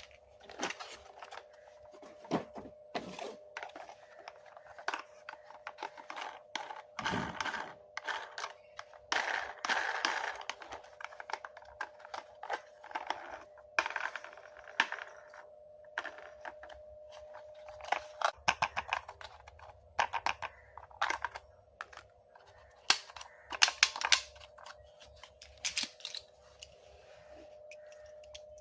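Plastic toy and its packaging being handled: a run of irregular clicks and knocks with bouts of rustling, over a faint steady hum.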